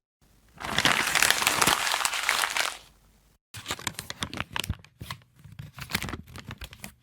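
Crumpling, crackling sound effect: a dense burst of crackle lasting about two seconds, then after a short pause a run of irregular crackles and clicks.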